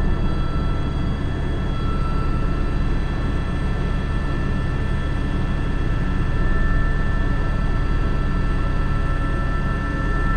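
Airbus H125 (AS350 B3) single-engine helicopter in flight: a steady high turbine whine over the constant low thrum of the rotor.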